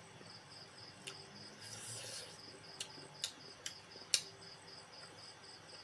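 A cricket chirping steadily in a fast, even pulse of about six chirps a second. A few short sharp clicks come through about a second in and again between three and four seconds in.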